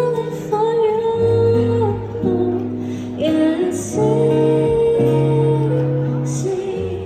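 A woman singing a slow song in long held notes with vibrato, over guitar accompaniment.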